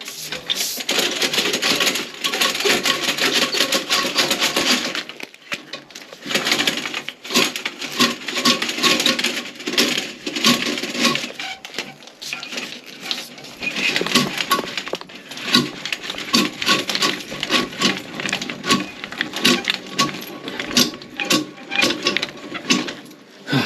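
A hand drain-clearing tool being worked vigorously in a toilet to dislodge a suspected obstruction: rapid, irregular scraping and clattering, with a short pause about five seconds in.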